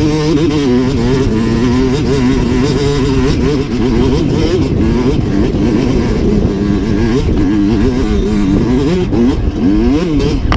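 Dirt bike engine revving up and down, its pitch rising and falling again and again as the throttle is worked, with the widest swings near the end.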